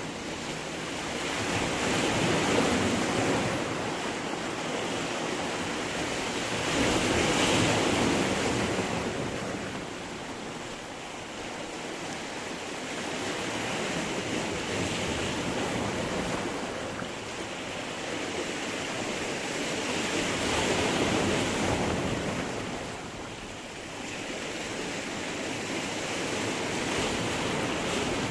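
Sea waves washing in against stones, the surf swelling and ebbing in slow surges every five seconds or so, with the loudest surges about 2, 7 and 21 seconds in.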